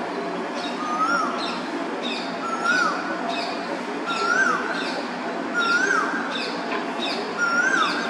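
A bird calling: a short note that rises and then drops sharply, repeated about five times at an even pace of roughly one every second and a half, with fainter high, falling notes alongside.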